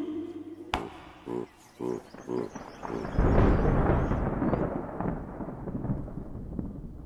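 A series of about five rhythmic animal grunts, roughly half a second apart, then a long rumble of thunder that slowly fades.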